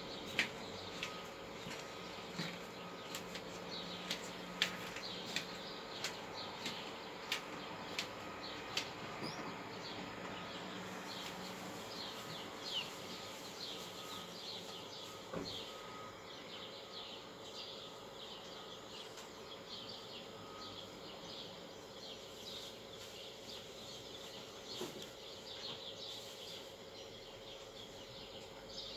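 Faint, rapid chirping of small birds: many short falling chirps, thicker in the second half, over a faint steady hum. A handful of sharp clicks come in the first half.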